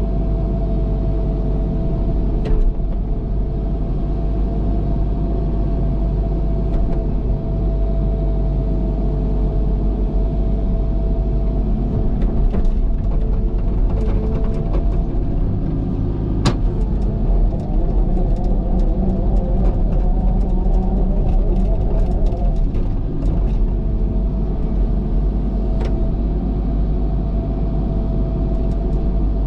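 Cat excavator's diesel engine running steadily under work, with a constant thin whine over the low rumble. Scattered clicks and knocks come through, busiest in the middle.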